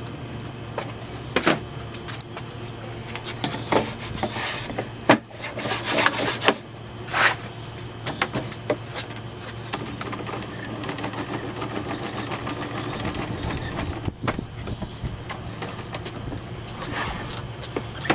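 Workshop handling noises: scattered sharp knocks and clunks with a few short scraping sounds, busiest in the first half and again near the end, over a steady low hum.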